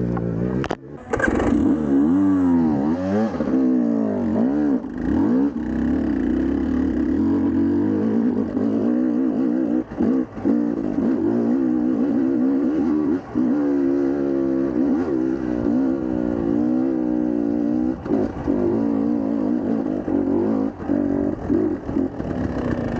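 Dirt bike engine revving up and down continuously under varying throttle, with brief drops where the throttle is shut for a moment every few seconds.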